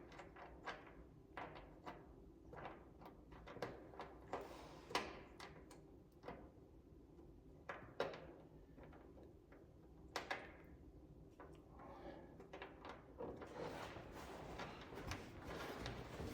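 Faint, irregular clicks and light taps of hands and small hardware against the car's underside while fumbling to fit a nut in a cramped spot, with steadier rustling near the end.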